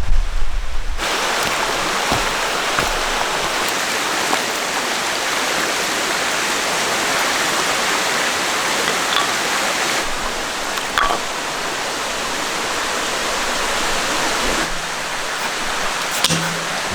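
Shallow mountain stream flowing steadily over rocks, with a few faint clicks later on.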